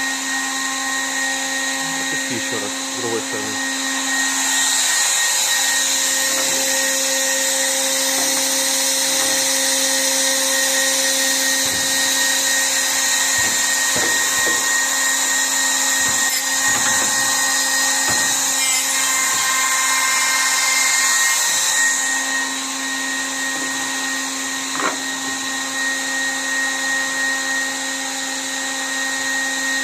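Hebrock Top 2000 automatic edge-banding machine running with a steady motor hum and whine. A louder high hiss joins about four seconds in and drops away about 22 seconds in. A single sharp click comes near the end.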